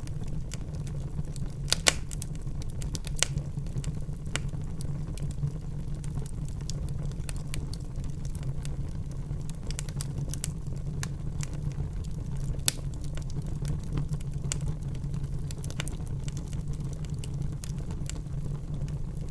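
Wood fire burning in a fireplace: a steady low rumble of the flames with many sharp crackles and pops, the loudest about two seconds in, at three seconds and near thirteen seconds.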